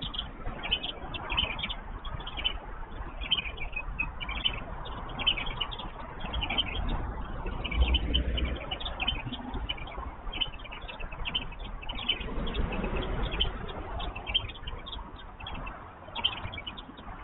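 Bird calls: short high chirps repeating about twice a second without a break, over a low rumble that swells and fades.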